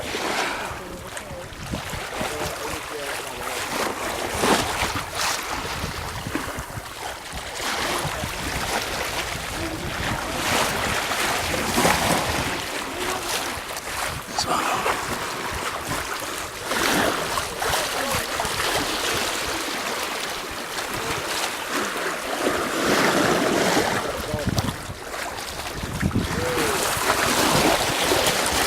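Wind buffeting the microphone over water rushing and splashing along the hull of a sailing yacht under way, surging louder and softer.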